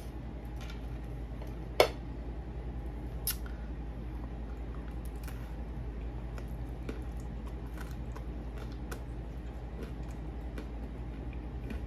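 A person biting into and chewing a slice of homemade pizza, heard as small scattered mouth clicks over a steady low hum. A sharp click about two seconds in, and a smaller one a second and a half later, are the loudest sounds.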